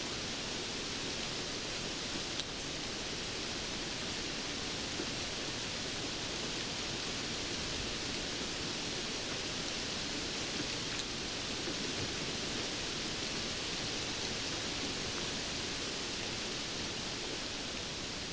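Steady rainfall: a dense, even hiss of falling rain, with a few faint single drop ticks.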